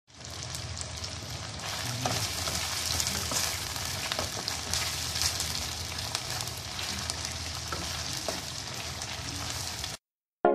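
Chicken pieces sizzling as they fry in oil in a karahi, with scrapes and knocks of a wooden spatula stirring them. The sizzle cuts off suddenly near the end.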